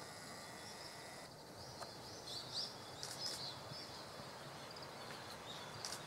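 Faint bird chirps, short high notes in a quick run a couple of seconds in and again near the end, over a steady outdoor hiss. A thin steady high tone stops about a second in.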